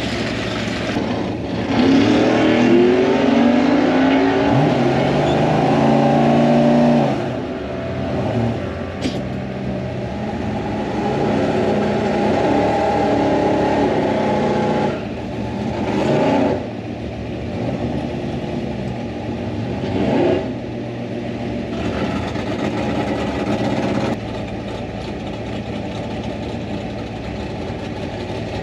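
V8 drag-car engines heard from inside a car cabin in the staging lanes. An engine revs hard for several seconds near the start, its pitch rising and falling. Then the car's own V8 runs steadily at low revs, with two short louder surges about halfway through and a few seconds later.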